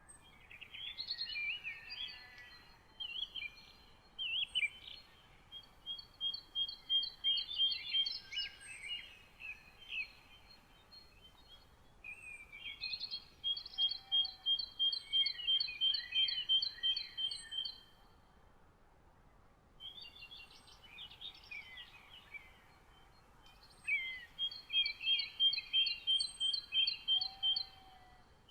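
Several songbirds singing. One bird repeats a song of rapid, evenly spaced notes, about three a second, in phrases of about four seconds, three times, while others twitter and chirp in between.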